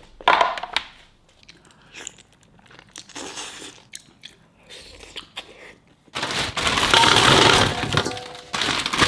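Crisp cracking and crackling of food: scattered sharp cracks at first, then a dense, loud crackle starting about six seconds in.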